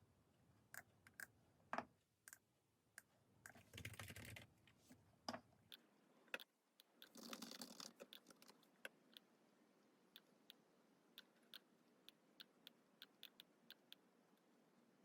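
Faint, irregular tapping and clicking, like typing or a stylus on a hard surface, with two brief rustling scrapes about four and seven and a half seconds in.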